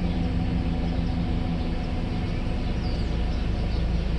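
Mercedes-Benz S600 W140's 6.0-litre V12 running at fast idle just after starting, its idle speed settling down after about two seconds under the Egas electronic throttle control.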